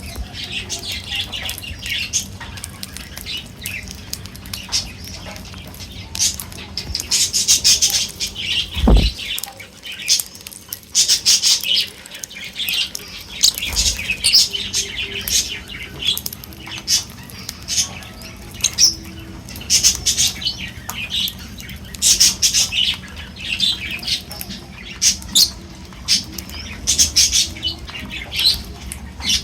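Several birds calling at once in a busy, overlapping run of short squawks and chirps. There are two low thuds, about nine and fourteen seconds in.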